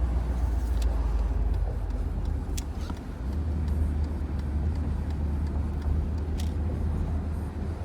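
Mercedes-Benz R129 500SL's V8 with the muffler removed, running at a low steady drone while cruising with the top down, with wind and road noise. The engine note eases off briefly about three seconds in, then picks up again.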